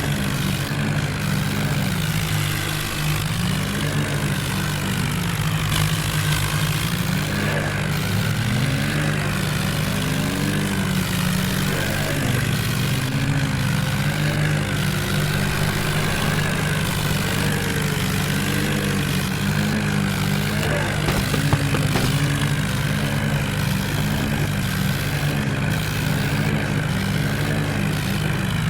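Tractor diesel engines running hard under load, their revs wavering up and down without letting up.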